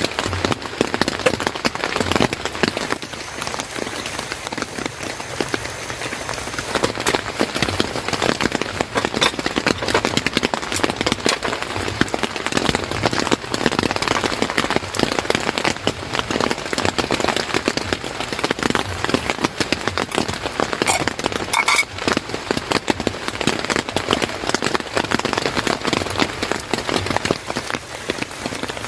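Rain falling steadily: a dense, continuous patter of drops hitting a surface.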